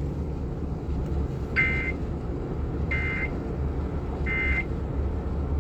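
Emergency Alert System end-of-message signal: three short, equal buzzy data bursts about 1.3 seconds apart, marking the close of a broadcast flash flood warning. A low steady rumble runs underneath.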